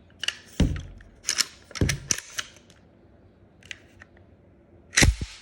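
Century Arms AK pistol being handled and cleared to show it is empty: a handful of sharp metallic clicks and clacks from the action and magazine, the loudest clack about five seconds in.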